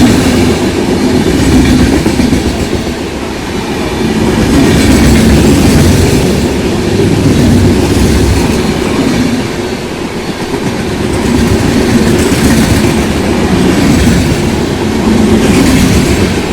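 Passenger train running on the rails, a continuous loud rolling rumble of wheels on track that swells and eases every few seconds.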